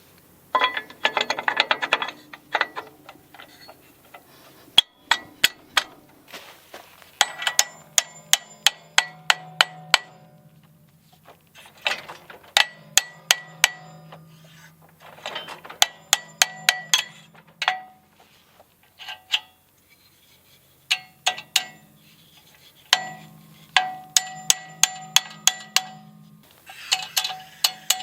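Hammer striking steel as a pin is driven back into a small Kubota tractor's bucket arm: bursts of sharp, ringing metal strikes, several a second, with short pauses between.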